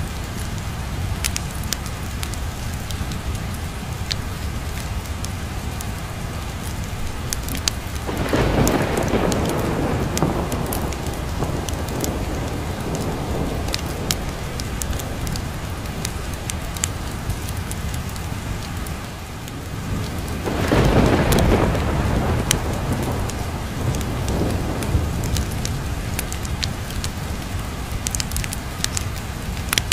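Steady rain, with two rolls of thunder: one swells about eight seconds in, and a louder one about twenty-one seconds in, each fading away over several seconds. Scattered sharp ticks sound through the rain.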